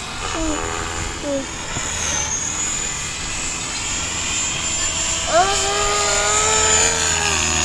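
Align T-Rex 550E electric RC helicopter in flight: a steady high-pitched whine from its motor and rotors that dips briefly in pitch about two seconds in, over wind rumbling on the microphone.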